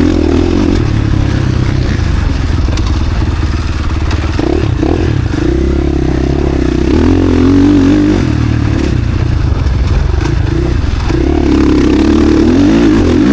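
KTM SX-F four-stroke motocross bike's single-cylinder engine revving, its pitch rising and falling repeatedly as the throttle opens and closes.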